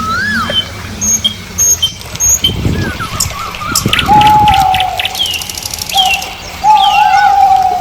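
Birds calling: repeated whistled chirps that rise and fall, and in the second half a few longer held whistles, over a low steady engine hum.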